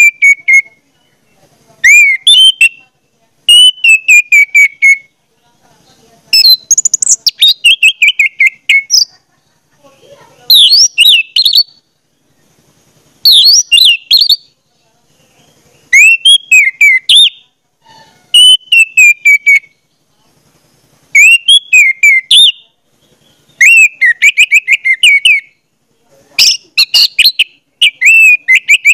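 A bird singing loud, short phrases of rapid whistled and chirping notes, one phrase about every two seconds with brief pauses between.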